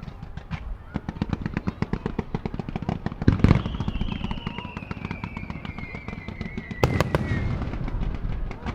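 Fireworks display: a dense, rapid crackling of many small bursts, a loud bang about three and a half seconds in followed by a long whistle that falls slowly in pitch, and two sharp bangs near the end.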